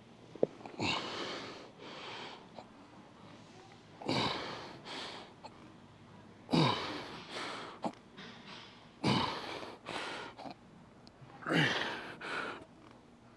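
A man breathing out hard with a short grunt on each rep of a weight-lifting set, five times at about one every two and a half seconds, each grunt falling in pitch. A sharp click comes just before the first.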